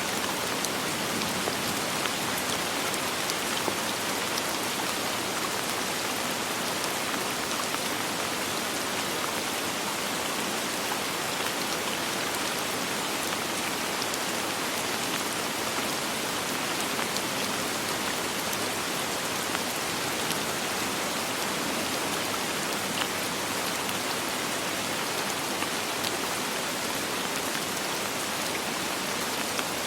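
Steady rain falling, a dense even hiss with scattered small drop ticks and no thunder.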